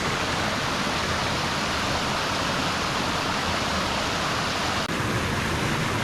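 Creek water rushing down over rocks into a pool, a steady loud rush.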